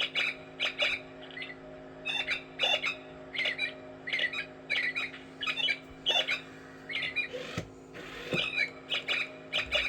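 A bird giving short, squawky chirping calls over and over, about one or two a second, with a steady low hum underneath.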